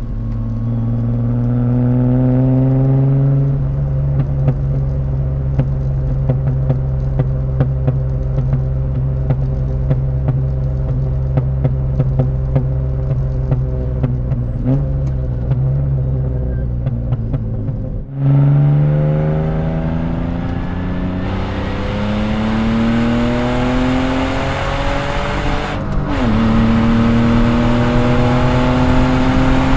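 BMW E36 328's straight-six with a loud exhaust, heard from inside the cabin. It pulls up through the revs, then holds steady for about fifteen seconds with a stream of sharp exhaust crackles. After an abrupt break it accelerates hard again, drops in pitch at a gear change near the end and keeps climbing.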